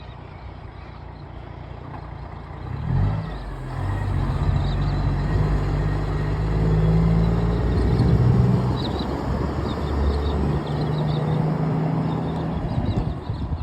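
Heavy diesel vehicle engine running. It grows louder about three seconds in, and the revs shift up and down several times.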